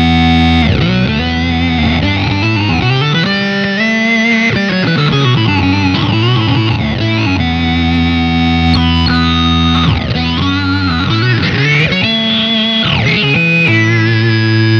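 Electric guitar played through an EarthQuaker Devices Data Corrupter PLL synth/harmonizer pedal: a thick, buzzy synth tone with stacked octave harmonics whose pitch glides and jumps between held notes.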